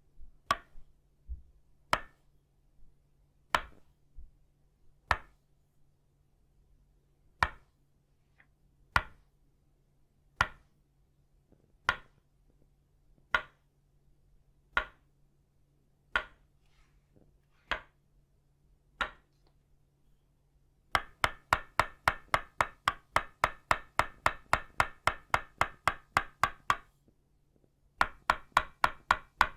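Tok sen: an itaúba-wood mallet tapping a wooden peg, with single knocks about every second and a half. About two-thirds of the way through it breaks into fast, ringing runs of about four to five strikes a second, with a brief pause between the two runs.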